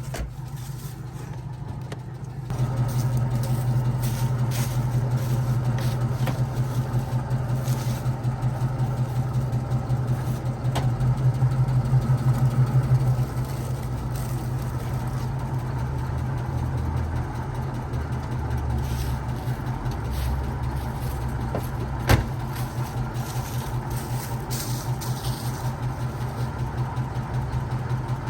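A 1989 Chevrolet Caprice Classic's engine running at a steady idle. It gets louder a few seconds in and rises briefly around the middle before settling back, with one sharp click near the end.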